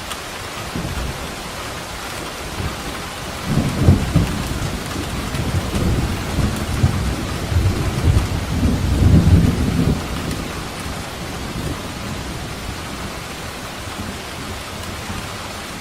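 Steady rain with a long roll of thunder rumbling low from about three seconds in until about ten seconds in, swelling twice before it fades back to rain alone.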